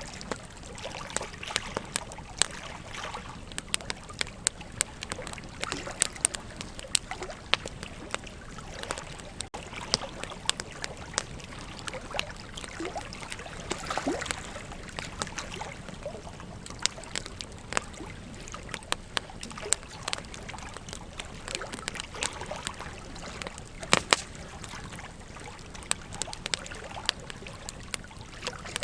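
Wood campfire crackling, with frequent sharp pops and snaps, a few louder ones about halfway through and again near the end. Under it, the steady rush of a river.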